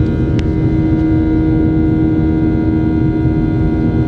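Boeing 737-800 in flight heard from inside the passenger cabin: the steady hum of its CFM56-7B engines and airflow, a loud even drone with one strong fixed tone and several weaker ones over a low rumble. A faint click about half a second in.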